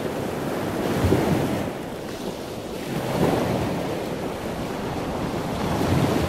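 Ocean waves: a steady rushing wash that swells three times, about a second in, around three seconds in and near the end.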